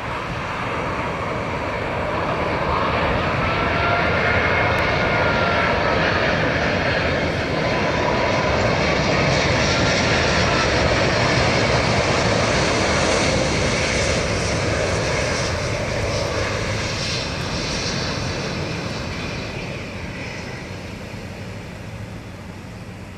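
Airbus A380's four Rolls-Royce Trent 900 jet engines on landing approach: a loud, steady jet rumble with a whining tone that wavers in pitch. It grows louder to a peak around the middle, then fades as the aircraft passes.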